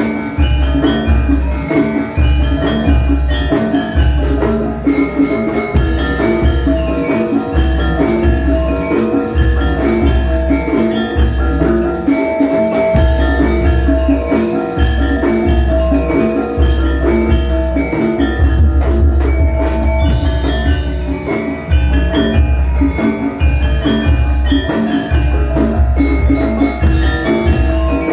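Javanese gamelan ensemble playing a gending: bronze metallophones and gongs ring out dense pitched notes over frequent deep kendang drum strokes.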